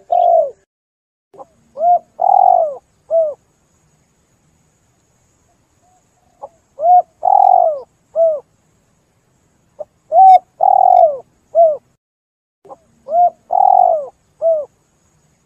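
Spotted dove cooing: four phrases a few seconds apart, each a short coo, a longer, louder coo and a short closing coo, with each note dropping in pitch at its end.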